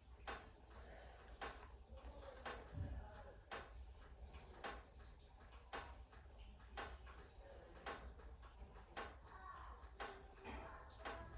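Faint ticking, evenly spaced about once a second, with fainter irregular clicks between the ticks over a low steady hum.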